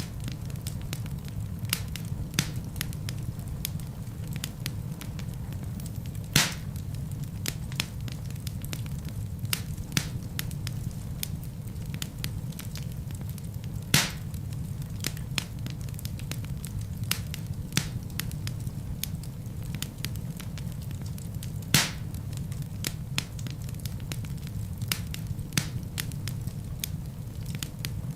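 Wood fire crackling in a fireplace: many small sharp clicks over a steady low rumble, with three louder pops from the burning logs spread through.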